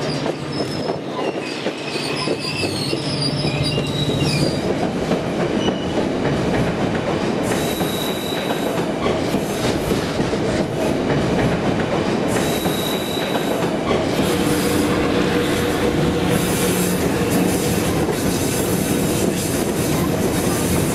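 Passenger train running along the track, heard from an open carriage window: a steady rumble and rattle of wheels on rails, with a brief high wheel squeal about 8 seconds in and again about 13 seconds in.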